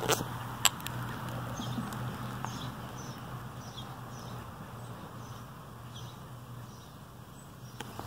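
A small bird chirping repeatedly, short high falling chirps about twice a second, over a low steady hum. A couple of sharp handling clicks come in the first second.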